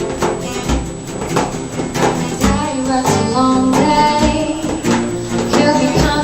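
Live unplugged band music: acoustic guitar with a low drum beat about every two seconds, and a singing voice coming in about halfway through.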